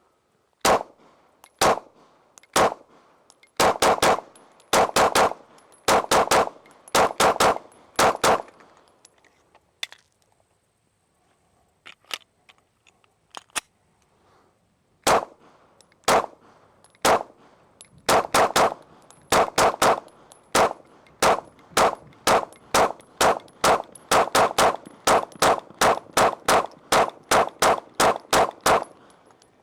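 9mm Glock 19 pistol firing with a drop-in replacement barrel: two strings of shots, the first few spaced, then quick pairs and triples. A pause of several seconds with a few faint clicks falls between the strings for a magazine change, and the second string ends in a fast run of shots.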